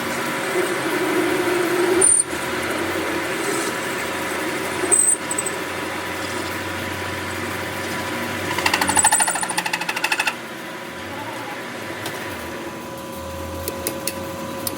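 Steady workshop machine noise, with a burst of rapid, evenly spaced mechanical hammering lasting a little under two seconds about two-thirds of the way through, and a few sharp clicks.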